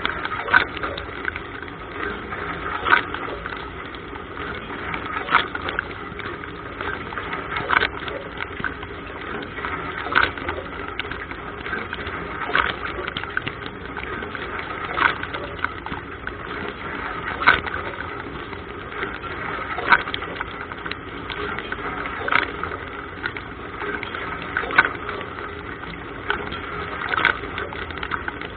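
Dishwasher wash cycle heard from inside the tub: water spraying and splashing steadily, with a louder swish about every two and a half seconds as the rotating spray arm's jets sweep past.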